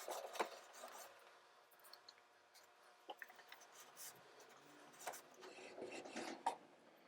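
Faint, irregular rubbing and scraping as glue squeeze-out is wiped from around a freshly glued bridge on an acoustic guitar's top, with a few small clicks.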